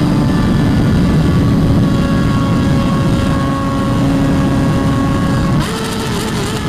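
Motorcycle engine running at high, steady revs over a rush of wind noise. The engine note shifts near the end.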